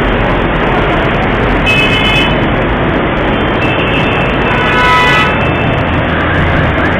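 Dense road traffic noise with vehicle horns honking: two short honks, about two seconds in and again about five seconds in.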